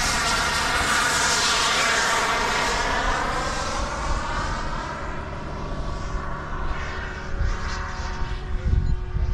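Radio-controlled model airplane flying past: its engine whine swells as it comes close, with the pitch sliding down as it goes by, then fades to a steadier, quieter tone.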